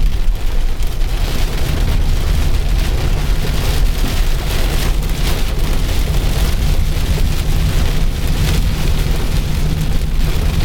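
Heavy rain pelting a moving car, with a steady low rumble of road and wind noise.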